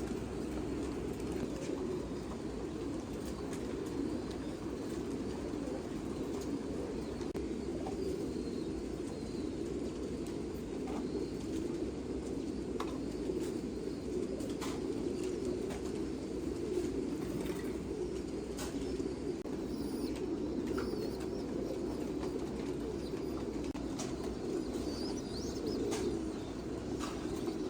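Domestic pigeons in a loft cooing together, a continuous dense chorus of low coos, with occasional short clicks throughout.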